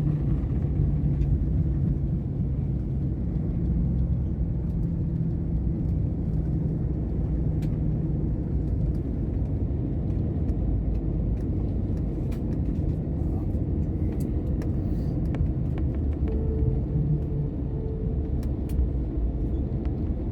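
Steady low rumble inside the cabin of an Airbus airliner rolling along the runway after touchdown, with a low steady hum through roughly the first eight seconds.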